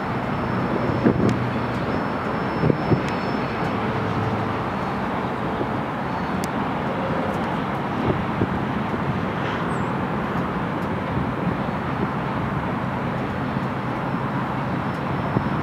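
Freight cars, boxcars and then tank cars, rolling past on steel wheels: a steady rumble with a few short knocks in the first few seconds.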